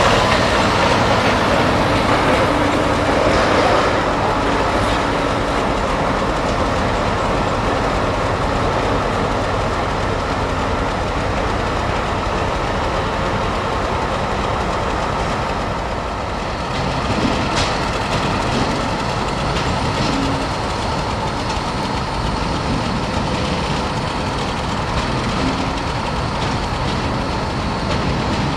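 Freight train rolling by on the rails, its wagons making a steady rumble, with a few brief knocks past the middle.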